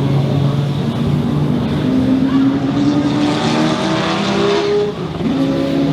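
Motorcycle engine accelerating hard, its pitch climbing steadily for several seconds. About five seconds in there is a brief dip, a gear change, then it climbs again.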